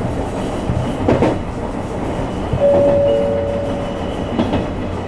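Running sound of a JR Kyushu YC1 series hybrid railcar under way with Hitachi VVVF traction: a steady rumble of wheels on rail, two short knocks about a second in and near the end, and a brief steady whine near the middle.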